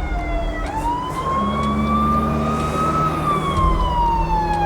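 Emergency vehicle siren wailing: one slow rise in pitch, peaking about three seconds in, then a slow fall, over a steady low engine rumble.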